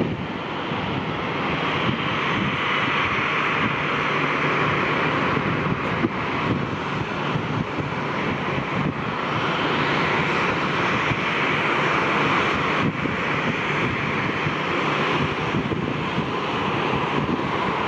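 Jet airliner engines running, a steady loud noise that grows slightly louder over the first couple of seconds and then holds.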